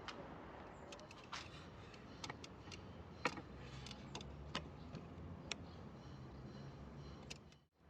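Scattered light clicks and ticks of hand tools and small parts being handled during car repair work, the loudest a bit over three seconds in, over a low steady hum. The sound drops out briefly near the end.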